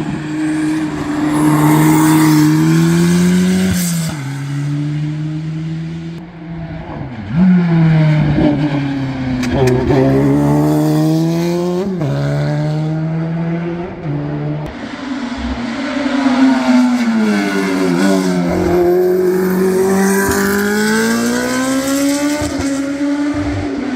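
Historic competition car's engine at full throttle on a hillclimb, its note climbing and then dropping sharply again and again as it changes gear and lifts for bends.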